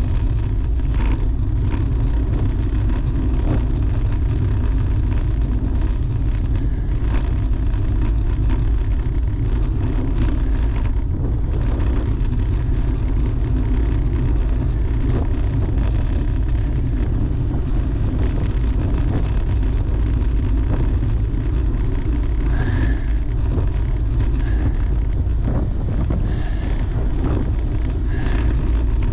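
Wind rumbling steadily on the microphone of a camera carried on a moving road bicycle. A few short high chirps sound near the end.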